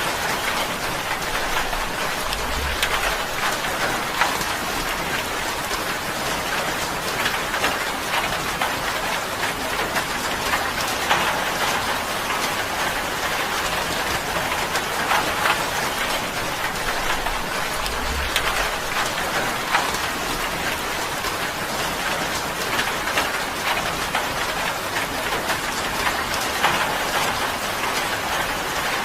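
Steady rain falling on a tin roof: a dense, even patter with many sharp individual drop ticks.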